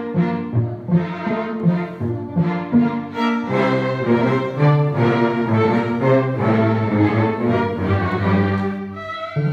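Orchestral music with brass and strings playing chords in a steady rhythm, growing fuller about three and a half seconds in.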